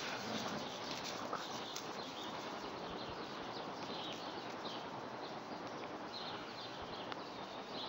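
Steady outdoor background hiss with small birds chirping, short high calls repeated many times from about three seconds in.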